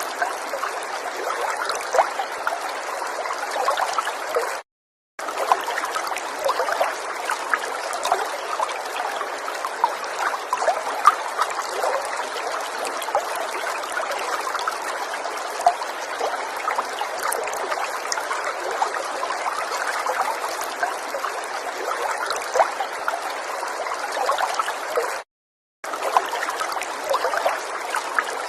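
River water flowing and babbling steadily, with many small splashes and trickles. The sound drops out to total silence for about half a second twice, about five seconds in and a few seconds before the end.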